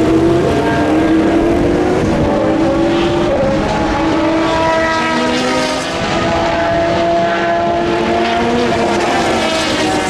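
Several race car engines running at speed on track. Their engine notes overlap and slide up and down as the cars pass, with no break.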